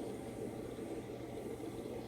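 Steady low hum and hiss with no distinct events.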